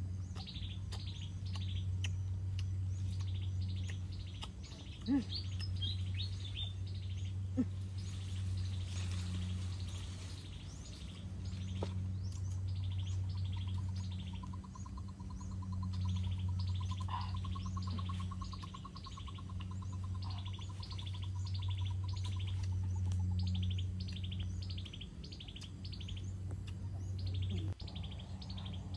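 Birds chirping in rapid repeated runs of short falling notes over a steady low hum. For several seconds midway a pulsing high trill runs alongside, and there are two sharp snaps, about five seconds in and again two and a half seconds later.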